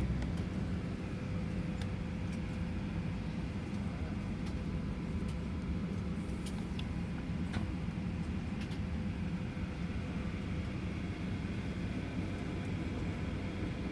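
Steady low hum inside a Boeing 737-800 cabin at the gate, from the aircraft's air supply and systems, with a faint steady whine and a few small clicks from the cabin.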